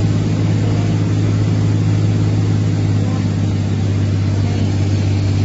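Steady low engine-like drone with a strong hum, unchanging throughout.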